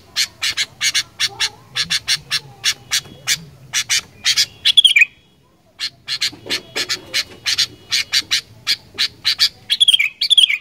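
Sooty-headed bulbul (kutilang) calling in a rapid series of sharp notes, about four a second. There are two runs, each ending in a falling slurred note, with a short pause about halfway through.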